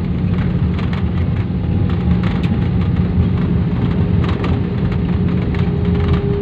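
Airliner cabin noise: a steady loud rumble of engines and rushing air heard inside the cabin, with a steady hum and scattered light rattles and clicks.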